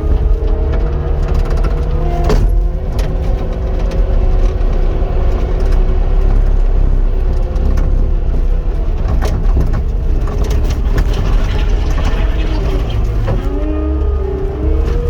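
Cat 259 skid steer's diesel engine running steadily with a whine over it; the pitch sags briefly and recovers near the end, with a few sharp knocks along the way.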